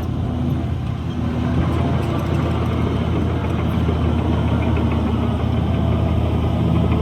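Heavy diesel engine of earthmoving machinery running steadily, its sound mostly low-pitched.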